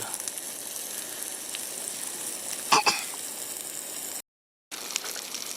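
Burgers sizzling steadily in a pan over a campfire. About three seconds in, a brief loud honk-like call cuts through.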